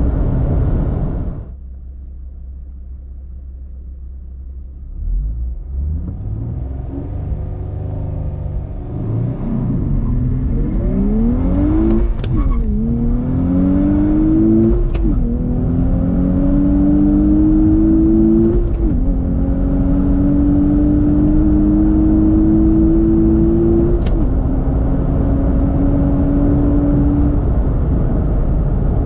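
Nissan Z's twin-turbo V6 running low and steady for a few seconds, then accelerating hard through the gears. The engine note climbs and then drops at each of four upshifts.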